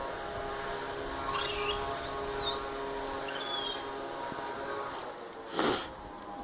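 Spider monkey giving three short, high squeaky chirps about a second apart over a steady motor hum, then a brief loud hiss-like burst near the end.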